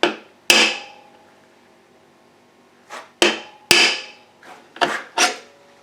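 Hammer blows on a metal rod used as a drift, driving a part off a Yamaha WR426F dirt bike engine during teardown. About seven sharp, ringing metal strikes: two in the first half-second, a pause of about two seconds, then five more in quick succession.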